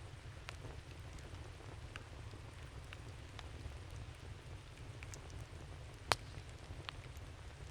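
Wood campfire crackling: scattered small pops and ticks over a steady low rumble, with one louder snap about six seconds in.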